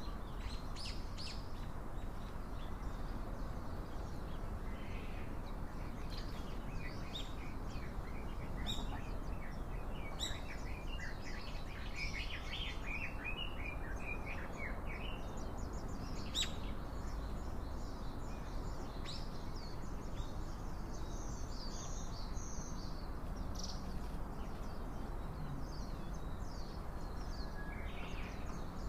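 Small wild birds chirping and calling, many short high chirps with a busy stretch of rapid calls about halfway through, over a steady low background noise.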